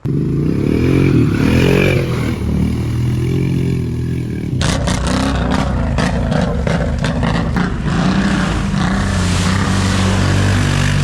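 ATV engine revving hard and unevenly while driving through a mud hole. From about halfway, rapid slaps and spatters join in.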